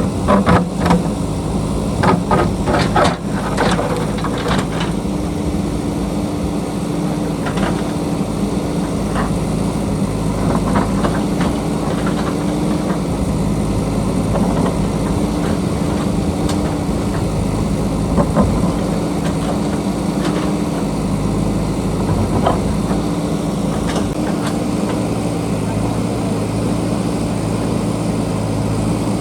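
JCB backhoe loader's diesel engine running steadily under load, with sharp knocks and clanks from the bucket working against rock, a rapid cluster in the first few seconds and single ones scattered after.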